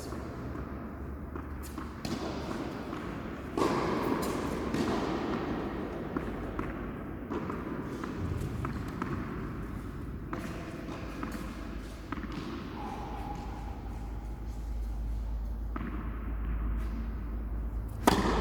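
Tennis balls thudding and knocking a few seconds apart, echoing in a large indoor hall, with faint voices underneath.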